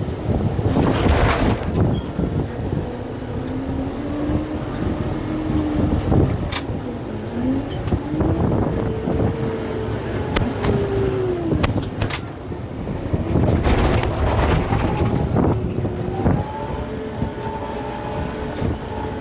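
A large farm tractor's diesel engine working under load, its pitch rising and falling as the revs change, with scattered knocks and cracks from the work.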